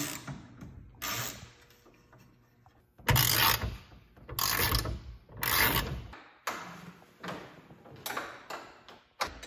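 Ratchet wrench clicking in a series of short runs, as when bolts on a truck's trim are being turned out. The runs are longer in the middle and shorter and quicker near the end.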